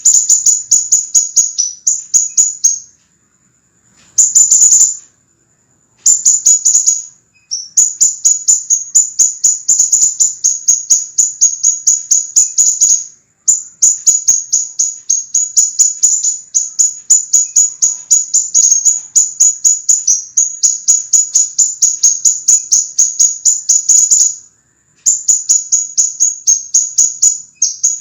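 Sepah raja (minivet) song from a tutoring recording: rapid, sharp, high chipping notes, each sliding down in pitch, about five a second, in long dense runs broken by brief pauses.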